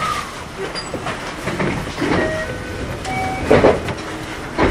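Inside a JR West 521 series electric train running on the rails: steady rumble with irregular knocks and clatter from the wheels, the strongest about three and a half seconds in and at the end, and a few brief high squeaks.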